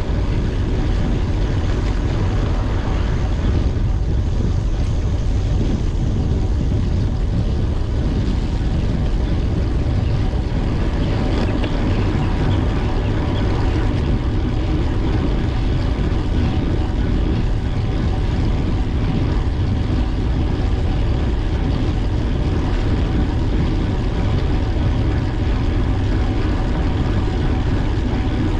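Steady wind rush and rumble on the microphone of a camera carried on a moving bicycle, heaviest in the low end, with a faint steady hum running through it.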